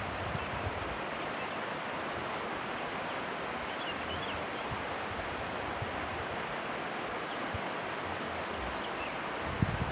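Steady, even rushing noise of outdoor ambience, with a few faint high chirps about four seconds in.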